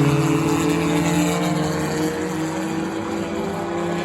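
Engines of enduro race cars running at speed around a short oval track, a steady drone that slowly fades.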